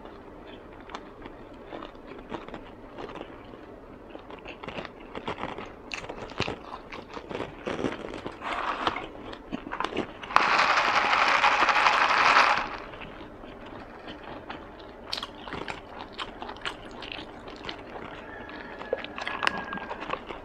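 Close-miked chewing with many small wet mouth clicks from someone eating fresh spring rolls (gỏi cuốn). About ten seconds in, a loud, even rushing noise lasts about two seconds.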